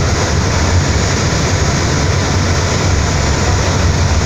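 Express Bahari 8B fast ferry under way: a steady, loud engine drone, a low hum under an even rushing noise.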